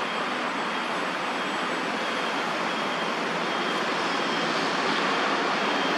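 Steady city traffic noise, a continuous hiss and rumble of passing vehicles that grows slightly louder toward the end.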